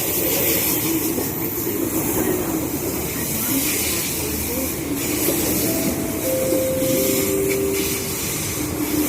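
MTR East Rail line Metro-Cammell EMU (MLR) electric train pulling into the platform, a steady rumble and hiss with a few short, steady tones about six to eight seconds in.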